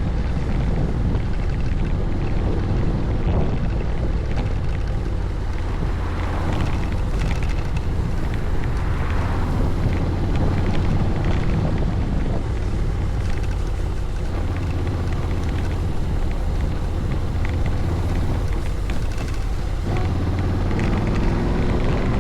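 Honda Forza 750 maxi-scooter's parallel-twin engine running while riding along, with wind noise on the microphone; the engine pitch climbs near the end as it accelerates.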